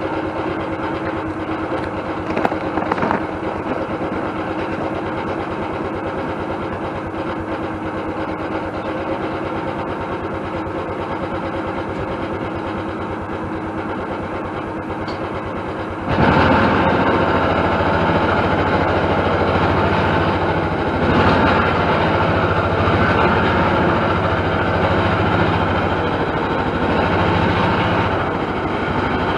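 A vehicle engine running steadily, then getting suddenly louder about sixteen seconds in and staying louder.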